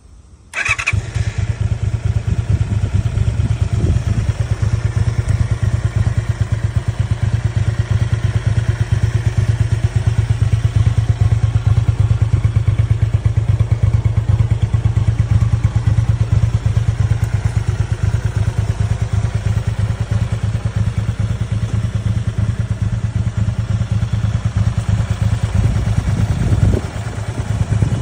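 Honda VT250F motorcycle's V-twin engine starting up with a short burst of cranking, catching about half a second in and then idling steadily with a fast, even low pulse. Near the end the sound briefly drops and changes before settling back into the idle.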